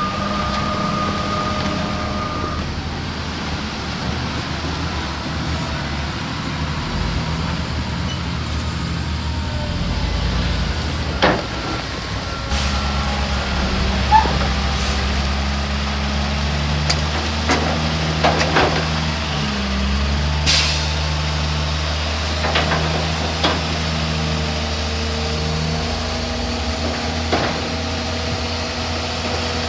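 Heavy diesel machinery, a crawler bulldozer and dump trucks, running steadily. The engine note gets heavier about twelve seconds in, with scattered sharp metallic knocks and a short hiss about two-thirds of the way through.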